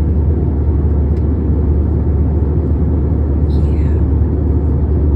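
Airliner cabin noise in flight: a steady, deep drone of engines and airflow. A brief high falling squeak comes about three and a half seconds in.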